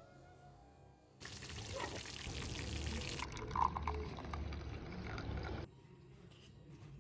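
Water being poured into a container, a steady splashing pour that starts abruptly about a second in and cuts off sharply after about four and a half seconds.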